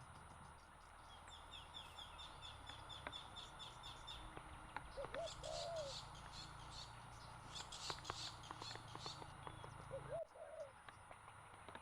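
Wild birds calling. A fast run of high chirps, about six a second, comes first. A low two-note cooing call follows twice, once in the middle and once near the end.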